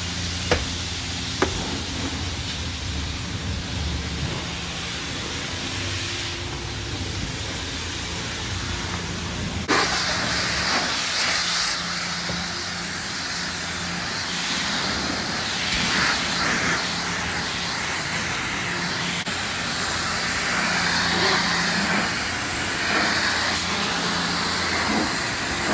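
Self-serve car wash high-pressure wand spraying water onto a truck: a loud, even hiss that starts suddenly about ten seconds in and keeps going, over a steady low hum. Two sharp clicks come near the start.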